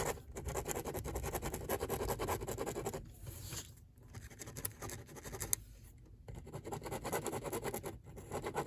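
Rapid back-and-forth scribbling of a drawing tool on paper, colouring in a shape, in runs of fast scratchy strokes with two short pauses.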